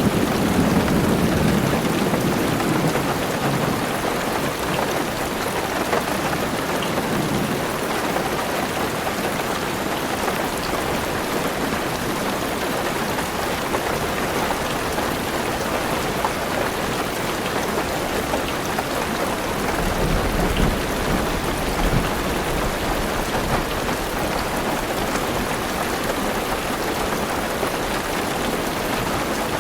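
Heavy rain falling steadily on a car roof, with a low rumble of thunder in the first few seconds and another, deeper rumble about two-thirds of the way through.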